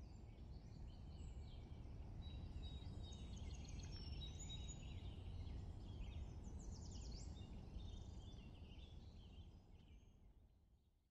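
Faint birdsong, several birds chirping and trilling, over a steady low rumble. It fades out over the last couple of seconds.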